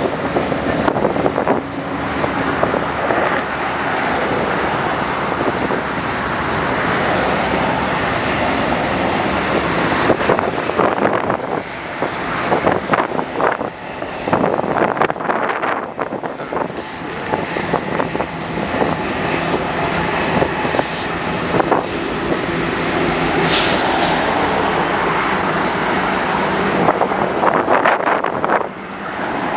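Freight train moving during switching: a steady noise of wheels on rail with occasional knocks.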